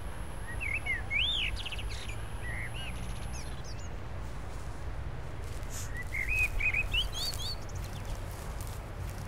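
Small birds chirping in two short flurries of quick rising and falling notes, about a second in and again about six seconds in, over a steady low outdoor rumble.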